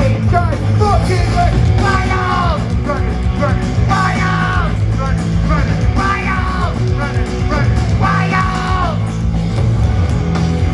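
Loud punk rock music from a band, with a melodic line that slides down in pitch about every two seconds over a steady bass and drums.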